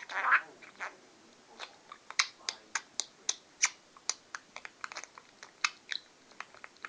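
Pet budgerigar making a series of short, sharp clicks, irregular and about two or three a second, with a brief louder burst of chatter at the very start.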